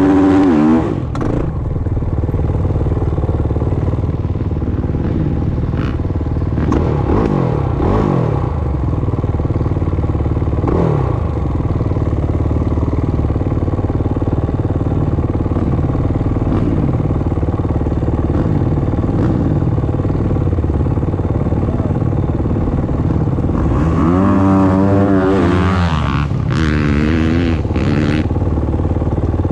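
Motocross dirt bike engines running on a dirt track, revving up and down through the gears. The loudest revving, with the pitch swinging up and down, comes right at the start and again near the end.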